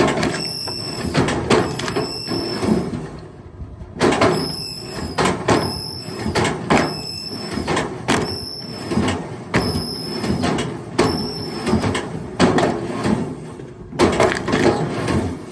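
Firewood logs knocking and clattering as they are thrown and handled, a run of hard wooden knocks with short pauses in between.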